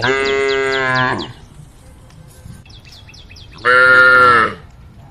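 Cow mooing twice: a call of about a second at the start and another shorter one about three and a half seconds in. Between the calls, a bird chirps in a quick repeated series.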